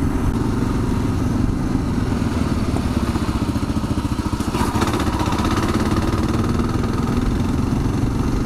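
Kawasaki KLR 650's single-cylinder engine running steadily while riding a rough forest road, with road noise and a brief clatter about four and a half seconds in.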